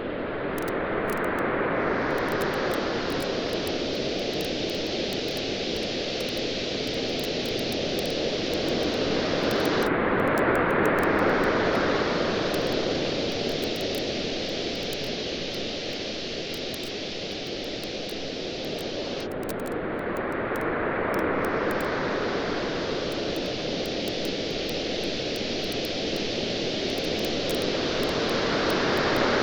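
Gentle surf washing in slow, even swells about every nine to ten seconds, over a steady hiss, with a faint scatter of small crackles from a wood campfire.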